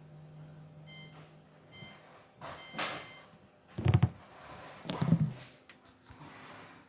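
Hotpoint Active Care washing machine's control panel beeping three times: two short beeps, then a longer one. A low hum stops around the second beep. Two loud, heavy thumps follow about a second apart.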